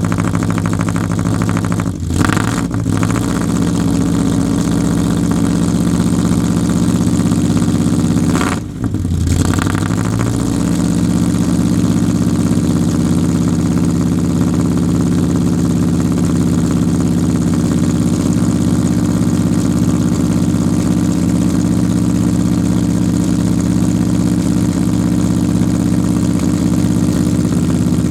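1967 Chevrolet Chevelle's engine running on a cold start, which the owner calls cold-blooded. The revs sag briefly about two seconds in and again around nine seconds, recovering each time, then it settles into a steady idle.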